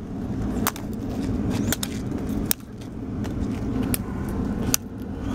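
A car's engine running with a steady low rumble, and several sharp clicks at irregular intervals over it.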